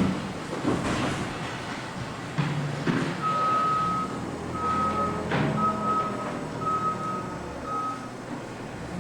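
A vehicle's backup alarm beeping five times, about once a second, starting a few seconds in. Underneath is steady machinery noise with several sharp clanks.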